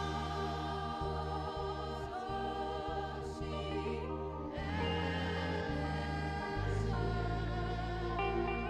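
Live gospel worship music led by a saxophone playing a gliding melody over a band's sustained bass notes, with voices singing along.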